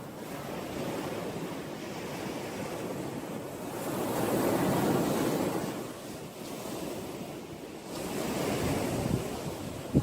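Ocean surf: waves washing in as a steady hiss, one swell building to its loudest about halfway through and another near the end.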